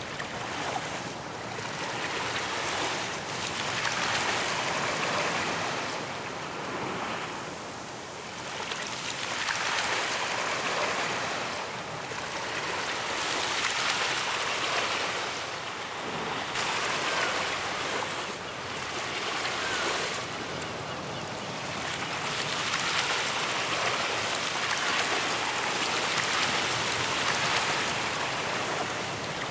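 Ocean waves breaking on a beach, the surf swelling and easing every few seconds.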